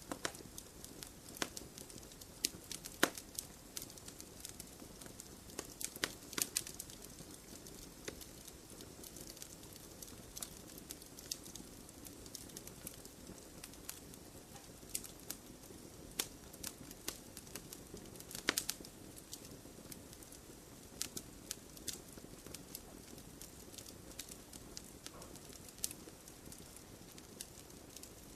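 Campfire of burning wood crackling and popping, with sharp irregular pops over a low steady hiss of the flames; a few louder pops stand out, about three seconds in, around six seconds, and a little past the middle.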